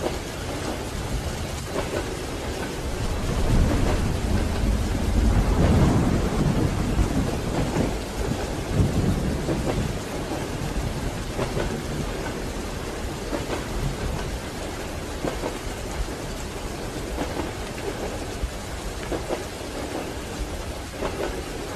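Steady rain on a train window, with a deep rumble that swells about four seconds in and fades away by about ten seconds.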